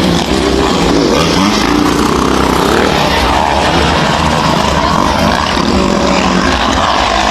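Motocross dirt bike engines racing on the track, revving up and down as the bikes accelerate and shift.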